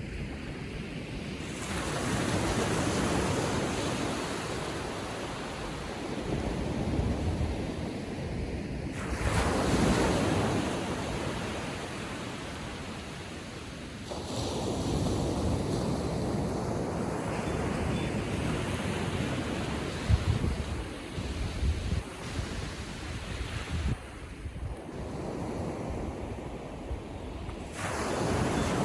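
Small ocean waves breaking and washing up a sandy beach, the surf swelling up and falling back in slow surges a few times. Wind buffets the microphone with low thumps partway through.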